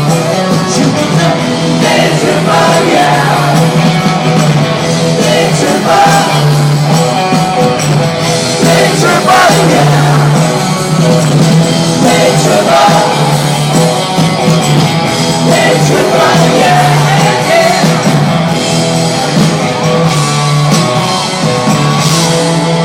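Live rock band playing with a lead vocal singing over it and voices shouting.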